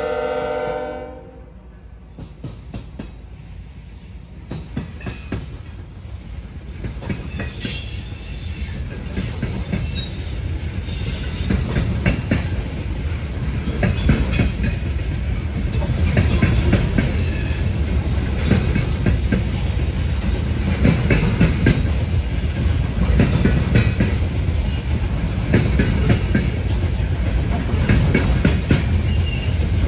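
Diesel locomotive's multi-note air horn sounding, cutting off about a second in. A loaded coal train's hopper cars then roll past, wheels clacking over the rail joints with a steady rumble that grows louder and stays loud.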